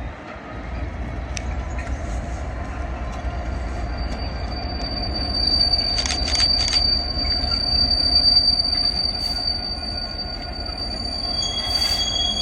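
Train moving through the station with a low rumble, its wheels squealing on the rails: a thin, high, steady squeal sets in about a third of the way through, and a second squeal at a slightly lower pitch joins near the end.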